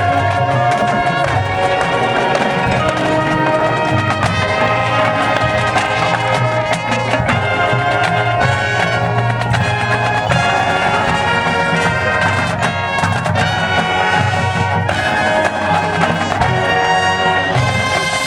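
Marching band playing a show piece: brass section of trumpets and trombones carrying the melody over drums.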